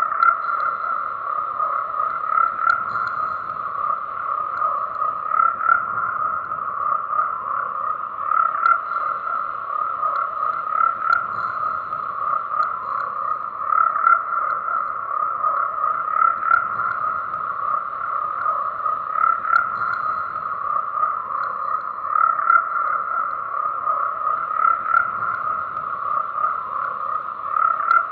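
Dense chorus of many frogs croaking at once, an unbroken overlapping drone of calls that swells a little louder every few seconds.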